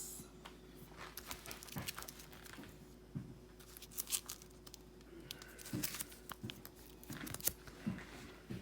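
Water-damaged photographs and album pages being handled: intermittent faint rustling and crinkling of stiff photo paper, with scattered light taps.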